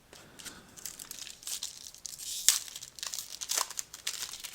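A trading-card pack wrapper crinkling and tearing as it is ripped open by hand, a quick irregular run of crackles with the sharpest one about halfway through.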